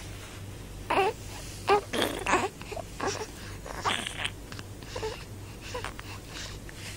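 Infant babbling softly in short breathy coos and grunts, a small sound every second or so, over a faint steady low hum.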